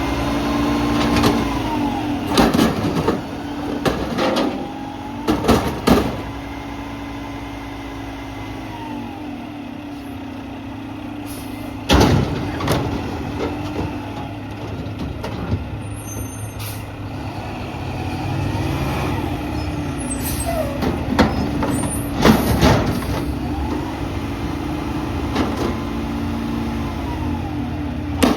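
Mack MRU McNeilus front-loader garbage truck at work: the engine runs steadily under a whine that rises and falls several times, broken by loud bangs, the sharpest about twelve seconds in.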